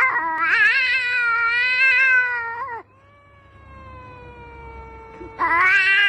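Long, drawn-out cat-like yowls: a loud, wavering call lasting almost three seconds, a quieter one that slowly falls in pitch, then another loud, wavering yowl starting near the end.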